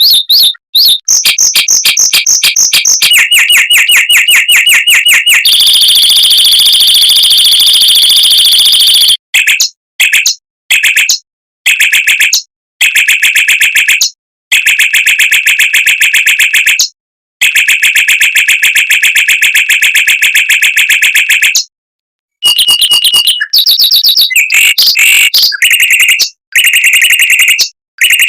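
Mockingbird singing fast, tight trills: long runs of rapidly repeated notes, several lasting a few seconds, separated by brief pauses.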